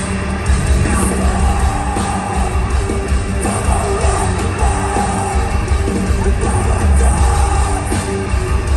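Loud live rock music with heavy bass and a singer yelling over the band, recorded from the audience at a concert.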